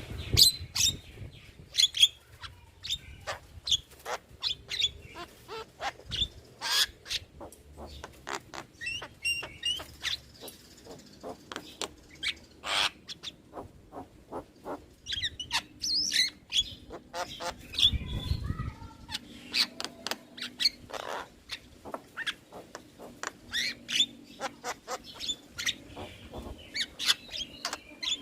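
Javan myna (jalak kebo) singing: a rapid, irregular string of sharp clicks, short whistles and harsh squawks.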